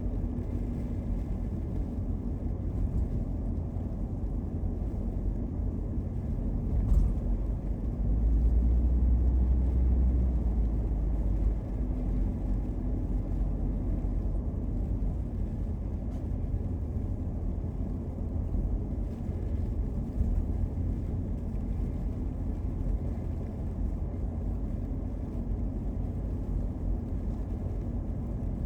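Car driving: a steady low rumble of road and engine noise, briefly louder about a third of the way through, with a single knock just before.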